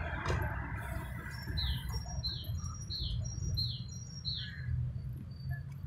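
A small songbird calling, starting about one and a half seconds in: five quick repeated phrases, each a short high note followed by a falling chirp, over a low steady background rumble.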